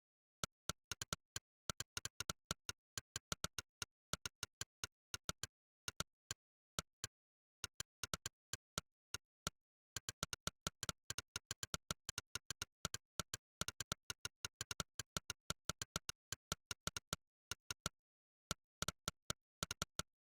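Monkeytype's synthetic 'click' keypress sound, one short click per keystroke, in quick irregular runs like fast typing with brief pauses between words and phrases, over dead digital silence. The clicks stop shortly before the end.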